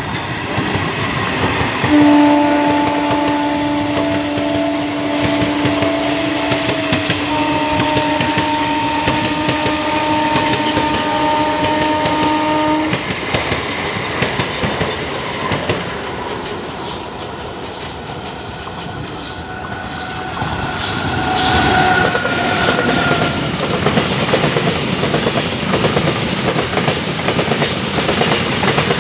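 Trains running past at speed, wheels clattering over the rail joints with a steady rumble. A train horn sounds one long blast from about two seconds in, lasting about eleven seconds, its chord changing partway through. A shorter, higher tone sounds about twenty seconds in.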